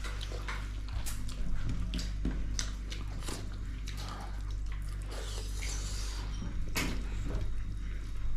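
Close-up eating sounds: mouth clicks and smacks of chewing meat and rice, scattered irregularly about once or twice a second over a steady low hum.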